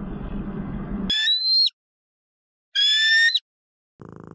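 A steady rushing noise that stops about a second in, then two short, high-pitched whistle-like animal calls about a second apart, each about half a second long and rising slightly in pitch.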